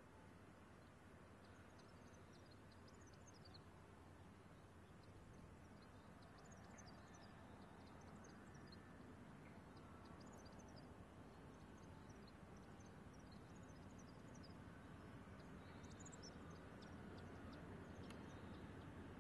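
Faint birdsong of many short high chirps over a low rumble that slowly grows louder: the diesel-electric locomotives of a grain train approaching from far off.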